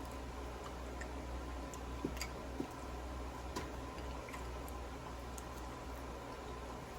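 Close-miked eating: chewing with scattered small wet mouth clicks and squishes, over a steady low hum.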